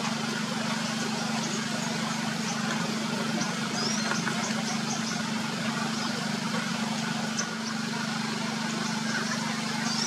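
Outdoor ambience: a steady low hum and hiss, with short, high chirps of small birds scattered throughout.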